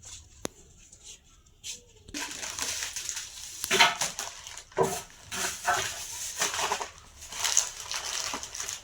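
A few faint clicks, then from about two seconds in an irregular crunching and crackling that goes on to the end.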